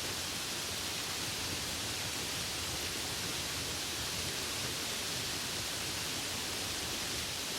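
Steady rain with a dense, even hiss and no distinct drops or pauses.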